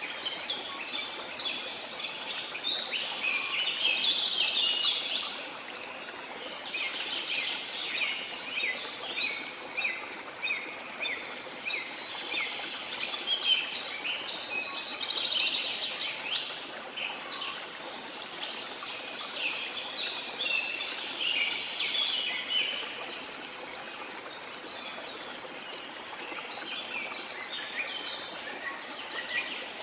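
A chorus of birds chirping and singing in dense, overlapping bouts over the steady rush of a waterfall. The birdsong eases off for a few seconds near the end, leaving mostly water.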